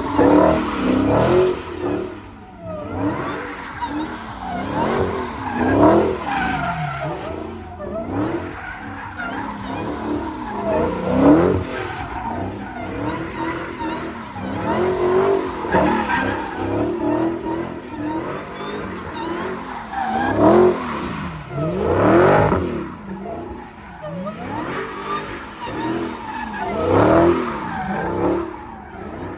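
Vehicle engines revving up and down over and over, with tyre squeal mixed in, in repeated surges every few seconds.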